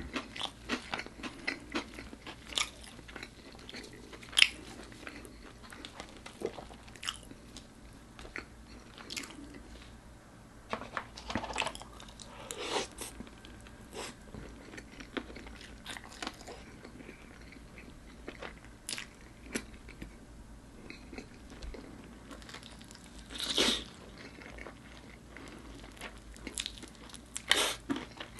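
Close-miked eating sounds: crisp bites and chewing of crispy-coated bone-in chili pepper chicken and potato wedges, with irregular sharp crunches between softer chewing and one louder, longer crunch near the end.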